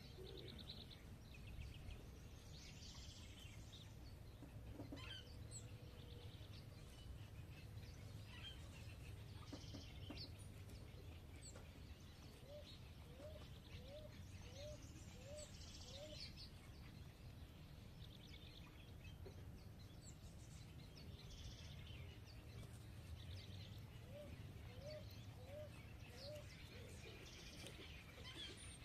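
Faint chirping of small birds, short high calls scattered throughout. Twice, a run of about five short, low, rising call notes, each run lasting a few seconds, over a steady low background rumble.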